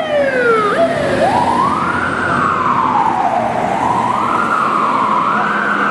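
American fire truck siren sounding. A falling, stepped tone in the first second gives way to a slow wail that rises, falls and rises again.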